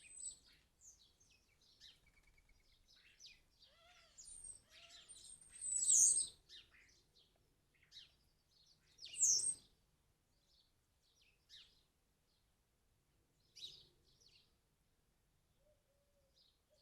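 Birds chirping and calling in short, high notes, with two louder, harsher calls about six and nine seconds in.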